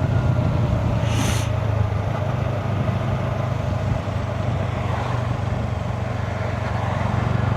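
Yamaha motorcycle engine running steadily while riding slowly through traffic, with a brief hiss about a second in.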